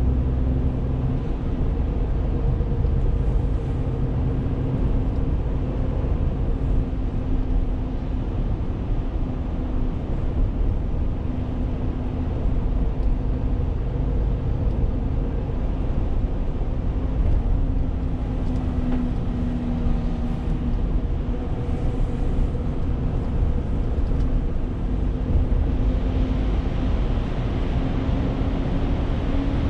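Renault T520 truck's diesel engine running steadily on the move, with a constant low rumble of road noise underneath. The engine's drone shifts slightly in pitch a few times.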